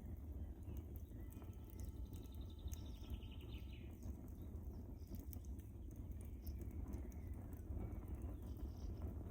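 Wood fire crackling: scattered sharp pops and snaps over a steady low rumble of the flames. A brief, high, falling whistle comes about three seconds in.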